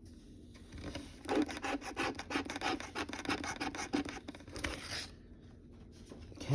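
A lottery scratch-off ticket being scratched: quick, repeated rasping strokes across the card's coating, starting about a second in and stopping about five seconds in.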